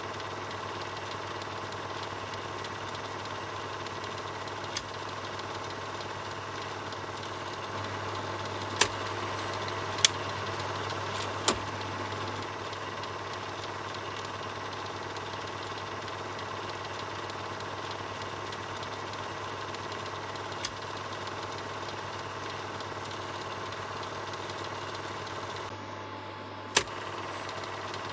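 Film projector running: a steady mechanical whir and rattle over a low hum, with a handful of sharp clicks, three close together about nine to eleven seconds in and one more near the end.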